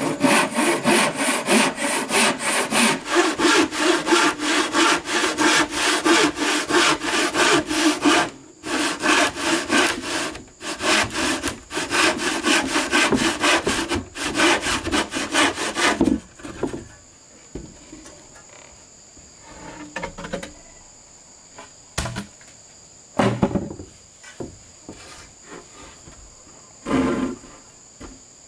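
Handsaw cutting through wood with fast, even strokes, about four a second, pausing briefly twice and stopping about halfway through; after that only a few scattered knocks of wood being handled. A steady high insect drone runs underneath.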